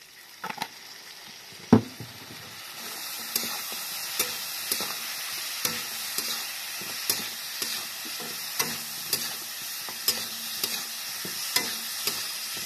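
Chicken feet and spice masala frying in a pan while being stirred: a steady sizzle that picks up about two seconds in, with regular knocks and scrapes of the spoon against the pan about once or twice a second. A single sharp knock comes just before the sizzle rises.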